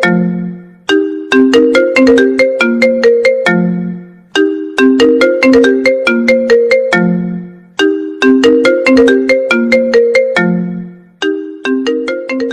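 iPhone ringtone playing: a short melody of quick, struck, mallet-like notes that repeats about every three and a half seconds. It starts to fade out on the last repeat, near the end.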